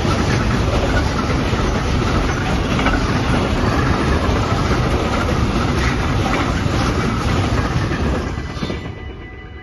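Freight train's wagons rolling past at close range with a loud, steady rumble, then dying away about nine seconds in as the tail of the train goes by.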